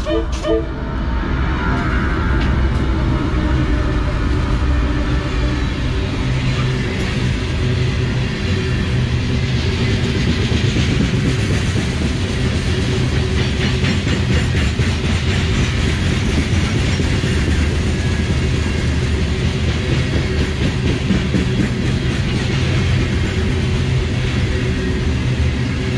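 CSX grain train passing close by: the diesel locomotives go by in the first seconds, then a long string of covered hopper cars rolls past with their wheels clacking over the rail joints.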